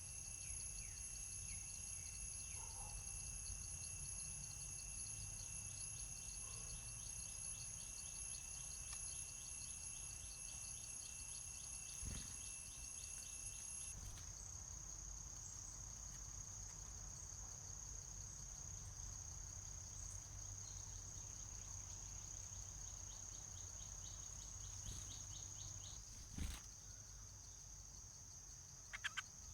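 Insects trilling steadily: continuous high-pitched tones with a fast pulsing trill that stops about halfway through, leaving one steady tone. A low rumble of outdoor background lies under it. There is a single knock near the end and a couple of brief high chirps just before the end.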